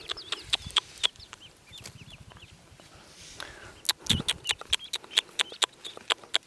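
Newly hatched ducklings peeping: many short, high calls in quick succession with sharp clicks among them, growing busier about four seconds in.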